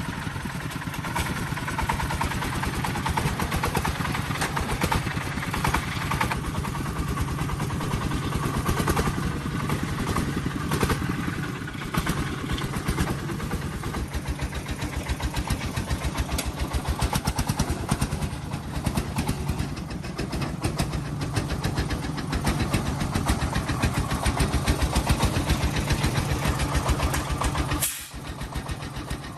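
An engine running steadily, with a rapid, even pulsing of its firing strokes and a slight rise and fall in level. It cuts off abruptly near the end.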